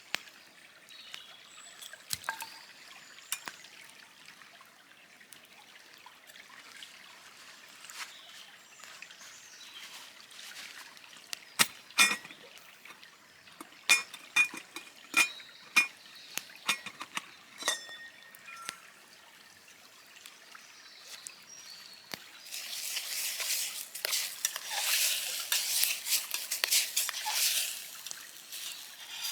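Liquid being poured and trickling, then a run of sharp metallic clinks in the middle. About 23 s in, food starts sizzling and crackling in a hot pan and keeps going.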